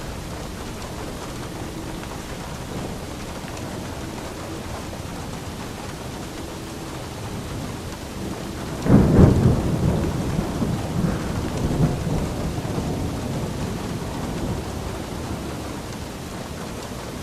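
Steady rain with a clap of thunder about halfway through, rumbling and dying away over several seconds.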